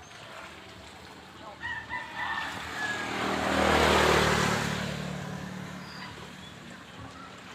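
A motor vehicle passes by: its engine and road noise swell to a peak about four seconds in, then fade away. A few short high calls, as from a bird or fowl, come just before it.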